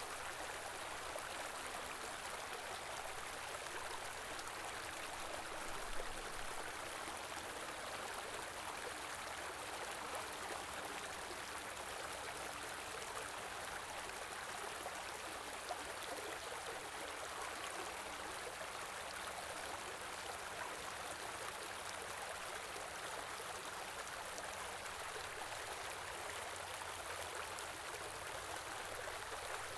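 Small river or stream flowing steadily over rocks, an even rush of water, with a brief louder splash or knock about six seconds in.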